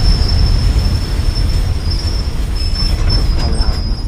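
Local passenger train running on the rails, its steel wheels squealing in a steady high-pitched whine over the low rumble of the carriage, easing off a little near the end.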